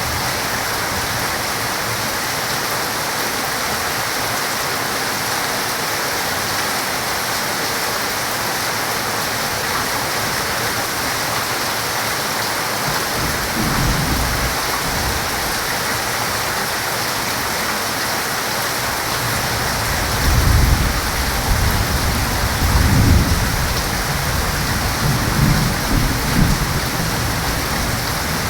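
Heavy rain falling in a steady hiss, with rolls of thunder: a low rumble about halfway through, then longer, louder rumbles in the last third.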